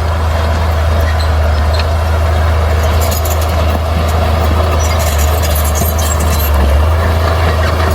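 Heavy diesel earthmoving machinery running steadily under load, with a deep engine drone and a spell of higher clatter in the middle.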